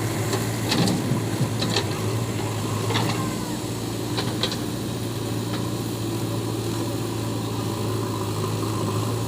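Heavy machine's diesel engine running steadily, with a few sharp metallic clicks or knocks in the first half.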